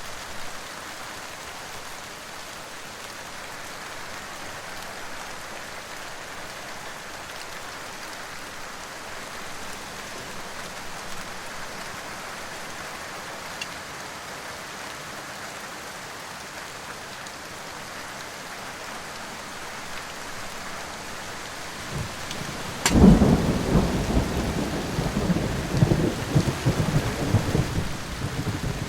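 Steady rain hiss. About 23 seconds in, a sharp crack of thunder, then a loud rolling rumble that goes on, rising and falling.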